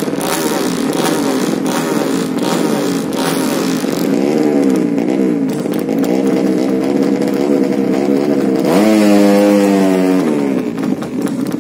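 Racing underbone motorcycle engines revving on and off, the pitch wavering up and down while the bikes wait for the start lights. Near the end one engine is revved sharply up and held high for about a second and a half, then lets off.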